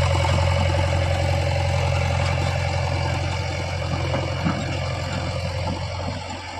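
Heavy-machinery diesel engine running steadily with a low hum, easing off a little near the end.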